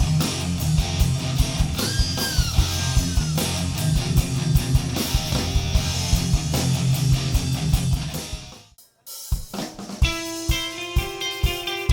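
Live rock band of electric guitars, bass and drum kit playing an instrumental passage with bending lead guitar. It fades out and cuts off just before 9 s, and a new song starts about a second later with a repeated guitar figure over a steady drum beat.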